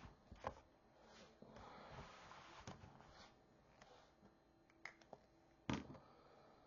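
Quiet handling of acrylic paint markers: several sharp plastic clicks, the loudest near the end, with a stretch of marker strokes scratching on paper in the middle.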